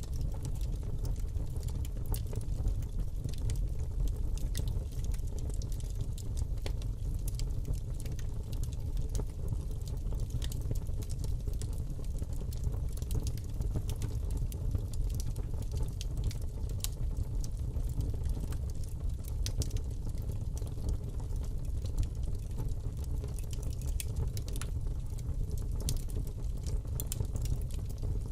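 Fire burning in a fireplace: a steady low rumble of flames with frequent sharp crackles and pops throughout.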